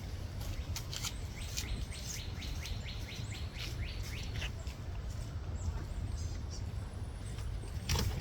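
A bird calls a rapid run of about a dozen short notes, each falling slightly in pitch, starting about two seconds in and lasting a little over two seconds. Scattered sharp taps and a steady low rumble run underneath, with a louder tap near the end.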